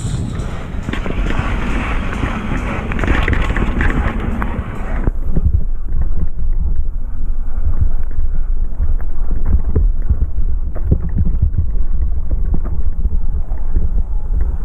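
Wind rushing over the microphone of a camera riding along on a downhill mountain bike, with knocks and rattles from the bike over rough trail. About five seconds in the higher hiss drops away suddenly, leaving low buffeting and thumps.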